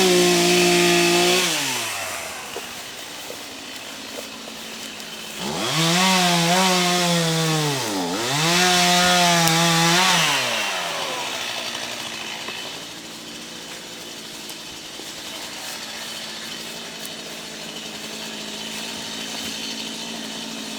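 Two-stroke chainsaw revved to full throttle near the start, then again for about five seconds from around 5 s in with a brief dip and return about 8 s in, each time dropping back to a low idle. Between and after the revs, a quieter steady engine hum continues.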